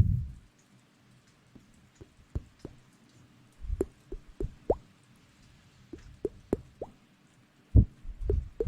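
Close-miked ASMR wet sounds: scattered soft plops and clicks, several with a quick upward rise in pitch. A loud low rustling rumble fades out in the first half second.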